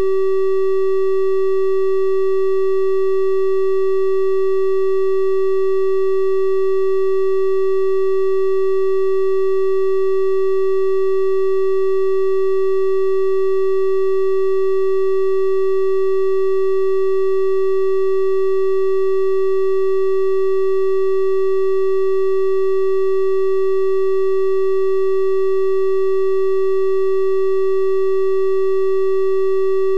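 Synthesized 384 Hz triangle-wave test tone, held steady at one pitch with faint higher overtones above it.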